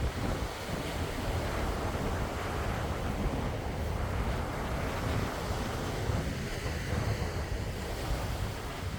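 Calm sea's waves washing in a steady rush of noise with a heavy low rumble, swelling and easing slightly but never breaking off.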